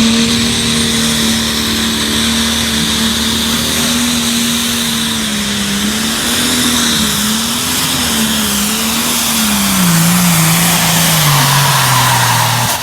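Pro stock pulling tractor's engine running flat out under load on a pull. Its pitch holds steady, then wavers and sinks in steps near the end as the engine is pulled down. The tractor has reared up onto its wheelie bars and lost leverage on the drawbar, making the sled harder to pull.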